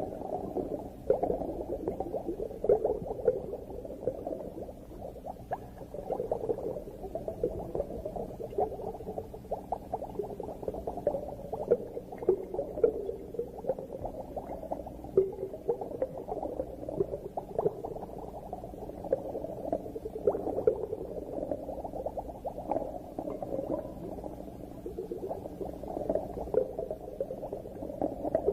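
Underwater coral-reef ambience: a continuous, muffled bed of dense crackling and bubbling, with many small irregular clicks.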